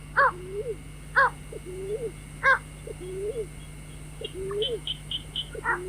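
White-breasted waterhen call, a short arched note followed by a lower rising note, repeated about once a second, used as a lure call for trapping waterhens.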